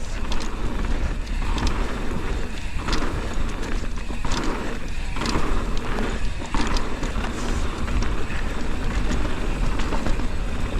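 A 2023 Intense Primer S mountain bike riding down a dirt trail, with a steady rumble of tyres and wind on the GoPro microphone and many scattered clicks and rattles from the bike.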